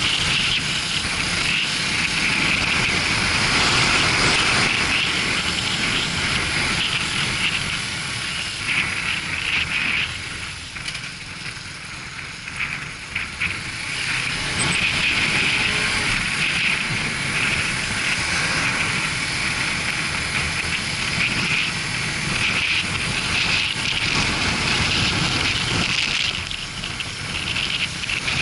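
Wind rushing over the action camera's microphone during a motorcycle ride, with the low running of the Suzuki GW250 Inazuma's parallel-twin engine underneath. The rush eases for a few seconds about a third of the way in, then picks back up.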